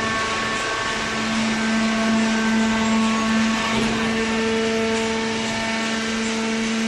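Hydraulic baling press running, its motor and pump giving a steady hum with a higher whine over mechanical noise.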